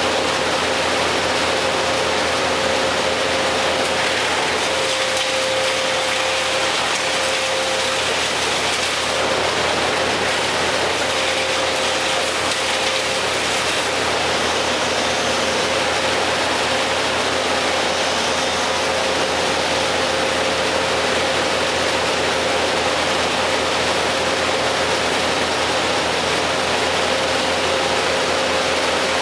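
Steady, unchanging machinery noise with a constant thin whine running through it.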